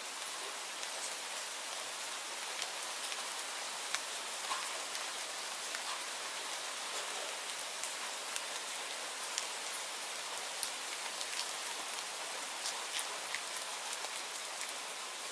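Steady rainfall: an even hiss with scattered sharp ticks.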